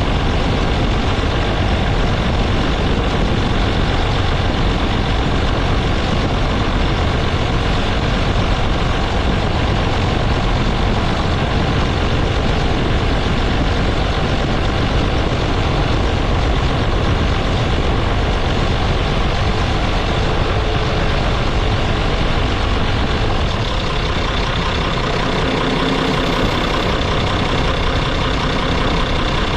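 Farm tractor engine running steadily while pulling a hay rake along a windrow.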